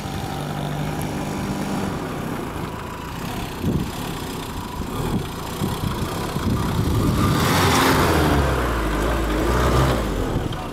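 Renault car's engine running and revving, loudest from about seven seconds in.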